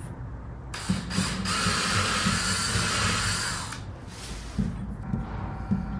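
Sanding of a small sculpture piece: a steady rasping hiss for about three seconds, then a fainter steady whine near the end, with light knocks of handling.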